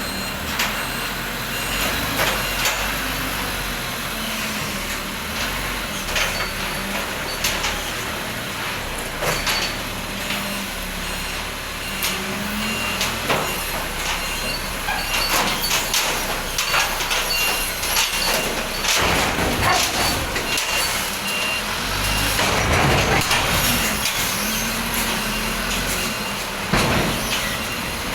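Forklift engine running, its pitch rising and falling as it works, with a reversing beeper sounding on and off. Frequent clanks and knocks, and a few loud rushing bursts in the second half.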